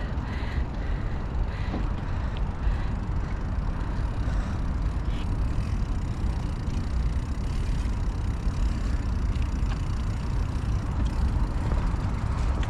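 Steady wind rumble and road noise on a moving microphone during a bicycle ride, a low, even roar with no distinct events.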